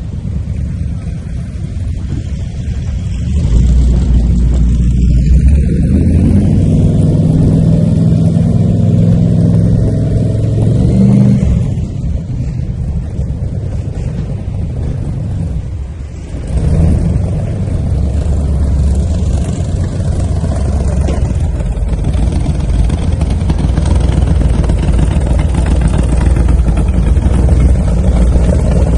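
A car engine running loud and low, revving up about six seconds in and easing off near twelve seconds, then picking up again about seventeen seconds in.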